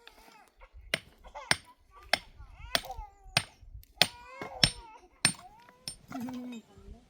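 Hammering: about nine sharp blows at an even pace, roughly one every 0.6 s, each with a brief ring.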